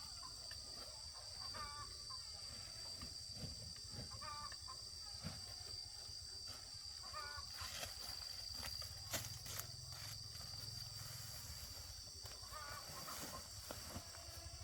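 Short wavering bird calls, repeated every couple of seconds, over a steady high-pitched tone, with scattered clicks and rustles.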